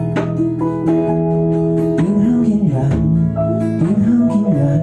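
Live band music led by guitar, playing between sung lines of a folk-pop song.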